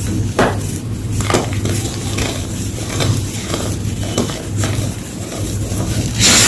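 Blocks of gym chalk being crushed and crumbled, with irregular crunches about once a second and the loudest, longest crunch near the end, over a steady low hum.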